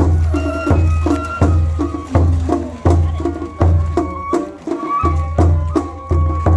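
Japanese festival hayashi music played live: a deep drum struck about every 0.7 seconds, dropping out briefly past the middle, with sharp smaller percussion and a flute holding a high melody.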